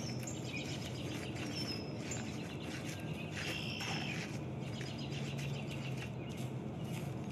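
Outdoor ambience: birds chirping now and then, with short high calls, over a faint, steady low hum.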